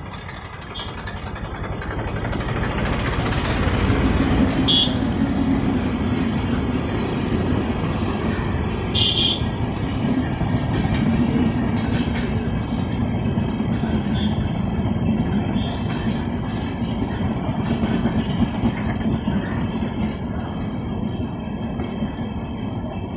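Passenger express train passing a level crossing at close range: a steady rumble and clatter of steel wheels on the rails. It builds over the first four seconds as the train reaches the crossing, then holds as the coaches go by.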